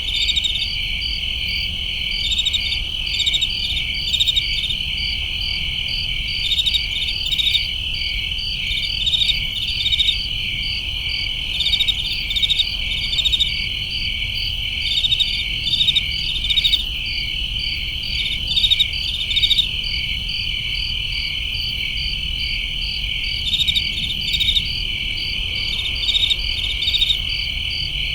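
Night chorus of crickets: a steady high trill with rapid, evenly repeating chirps over it, and a low rumble underneath.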